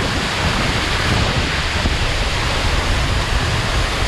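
Waterfall pouring down into a pool close by: a loud, steady rush of falling water.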